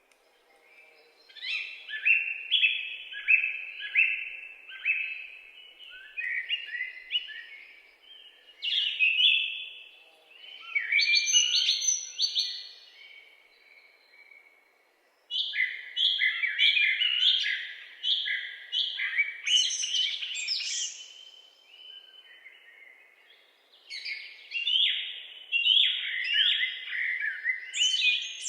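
Songbirds singing in woodland: rapid trills and runs of short chirps in phrases of a few seconds, with short pauses between them.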